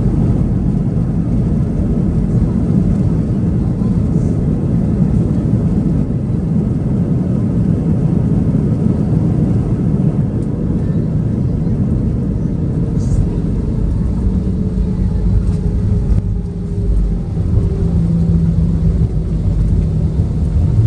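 Loud, steady rumble of an Airbus A320's engines and airframe heard inside the cabin during the landing rollout. A steadier engine hum comes in about two-thirds of the way through.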